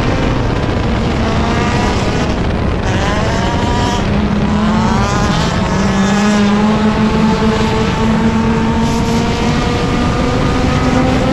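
Front-wheel-drive dirt-track race car engine running hard under racing load. The pitch climbs several times in the first few seconds as the car accelerates, then holds steadier.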